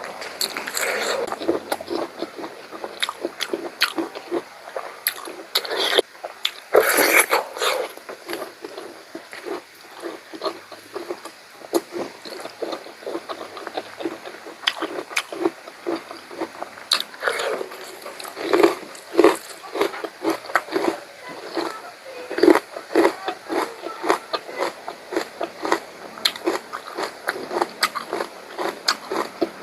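Close-miked eating sounds of pork curry being chewed: a dense run of short, wet mouth clicks and smacks. About seven seconds in there is a brief, louder rush of breath-like noise.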